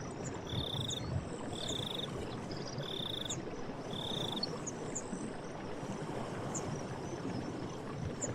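Forest stream running steadily, with birds chirping. A short buzzy trilled call repeats about once a second, four times, and stops about halfway through, while brief high chirps sound here and there.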